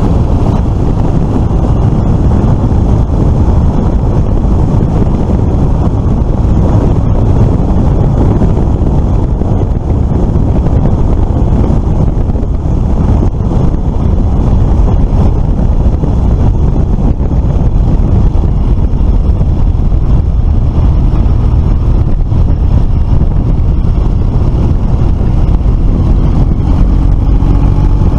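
Steady wind rush over the microphone on a moving Suzuki FL125 Address scooter, with the scooter's engine running under the wind noise.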